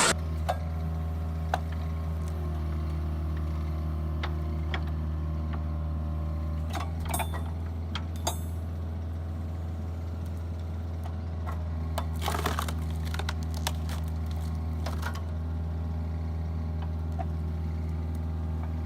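A machine's engine or hydraulic power unit running steadily at idle, a low even hum, with scattered light clicks and knocks and a couple of brief rattles of sharper clicks partway through.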